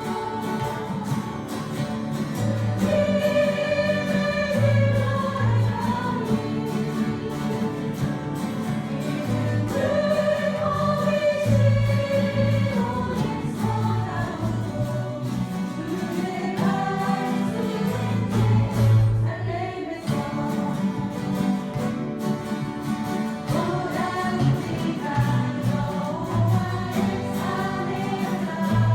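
A church guitar ensemble playing a worship song while a group of voices sings the melody over a steady bass line.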